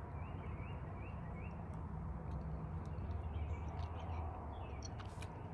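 Birds chirping, with a quick run of repeated rising notes in the first second and a half, over a low steady rumble.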